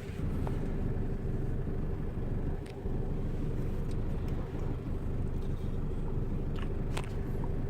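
Isuzu D-Max 3.0-litre four-cylinder turbodiesel engine running steadily, with a couple of light clicks.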